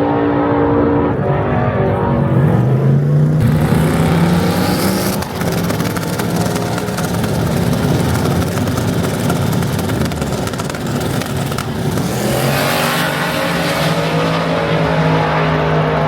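Loud race-car engines running: a steady engine note, then revving up with a rising pitch about two seconds in. This is followed by several seconds of dense, rough engine noise, and a steady engine note returns near the end.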